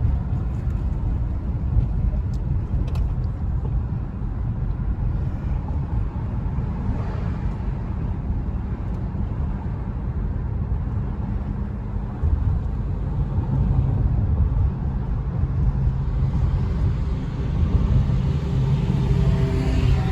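Road and engine noise heard from inside a moving car: a steady low rumble that gets a little louder about twelve seconds in.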